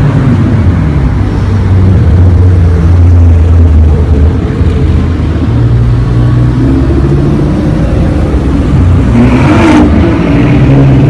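Supercar engine and exhaust: a deep, loud rumble, then a rev rising near the end that cuts off suddenly.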